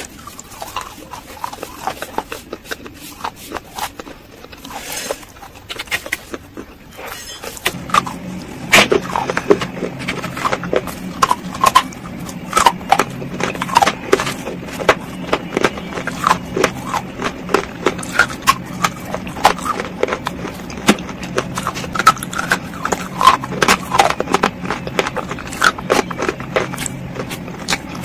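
Crunching and chewing of eaten baked clay and slate bars spread with a creamy paste: sharp, irregular crunches, a few each second, as the hard pieces break between the teeth. A steady low hum joins in about eight seconds in.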